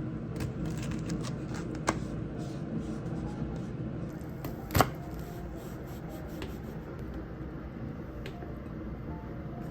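Light clicks and knocks of dishes and tableware being handled over a low steady background, with a sharper knock about five seconds in.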